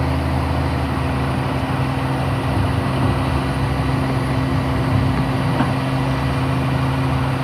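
Heavy vehicle engine running steadily, an even low hum that does not rise or fall.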